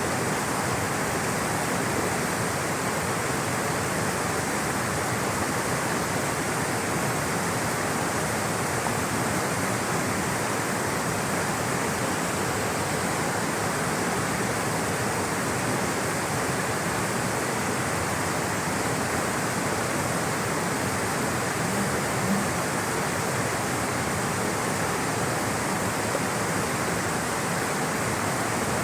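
Flowing water rushing steadily, an even, continuous rush of a stream or small waterfall.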